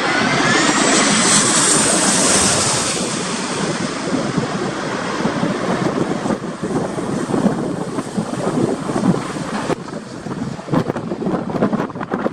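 Jet airliner engines with a whine that rises in pitch over the first couple of seconds, then fades into gusty storm wind buffeting the microphone, which comes in ragged bursts in the second half.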